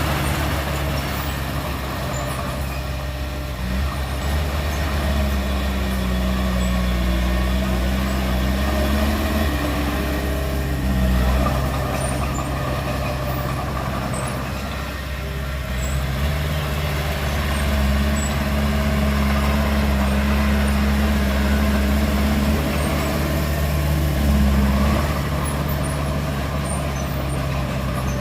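Heavy diesel engines of a bulldozer and dump truck at work, running continuously with the engine note rising and falling several times as it is revved under load.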